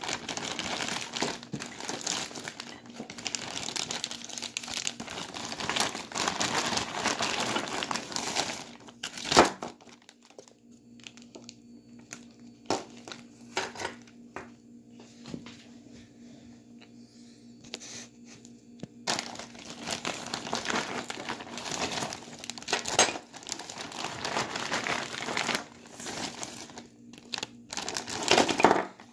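Plastic bags crinkling as they are handled, with a sharp click about nine seconds in, a quieter stretch of scattered small clicks, then steady crinkling again in the second half.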